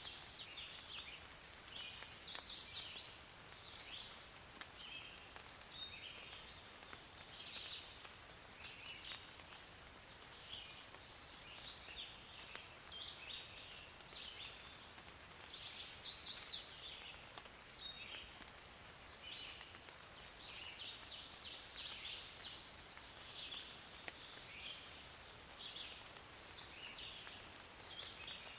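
Several birds calling and singing over a faint steady hiss, with a louder rapid trill about two seconds in and again near sixteen seconds.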